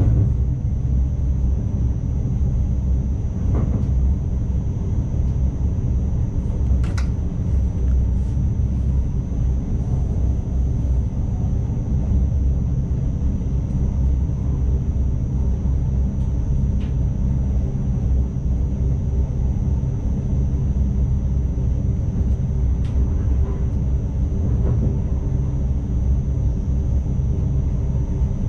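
Steady low running rumble heard in the driver's cab of an ICMm (Koploper) electric intercity train, with a faint steady high whine and occasional light clicks.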